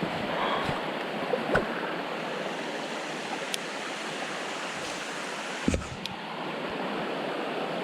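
Freshwater creek water running steadily, with a couple of brief knocks.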